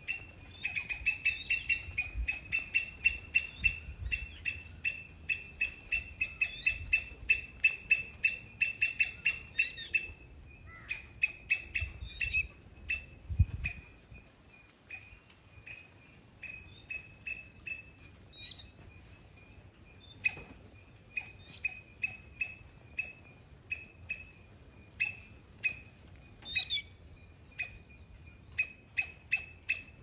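Rapid, evenly repeated high bird chirps, about three a second. After about ten seconds they turn sparser and fainter. A thin, steady high tone runs underneath.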